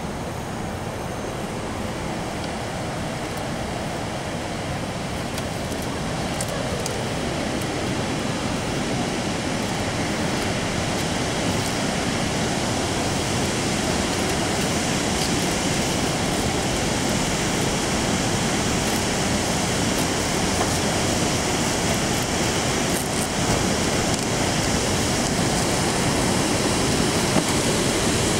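Harajiri Falls, a waterfall, giving a steady rush of falling water that grows slowly louder.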